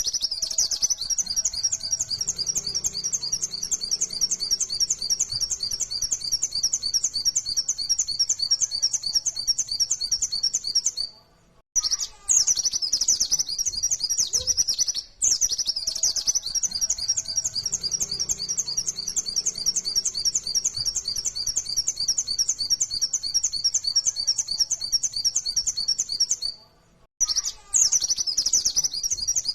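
White-eye (pleci) singing a long, very fast chattering run of high notes, the rapid 'nembak' song. It breaks off briefly three times and picks straight up again.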